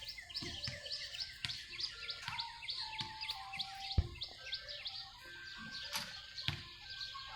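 Small birds chirping busily: a quick, steady run of short, high, falling chirps. A few low thumps, the loudest about four and six seconds in.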